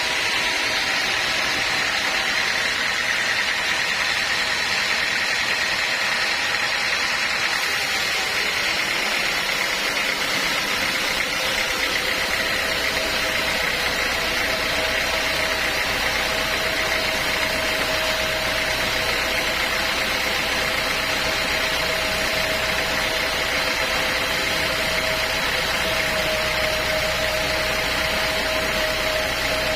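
Sawmill machinery running steadily: a constant hiss with a high steady whine. About twelve seconds in, a lower tone and a deeper hum join it.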